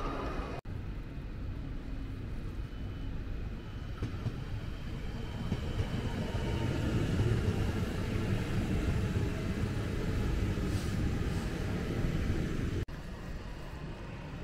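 A train rumbling through a railway station: a low, steady rumble that swells over the first several seconds and then holds, broken by two brief dropouts.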